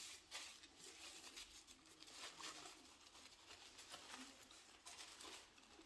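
Near silence, with faint scattered clicks of someone quietly chewing crispy fried cheese curds.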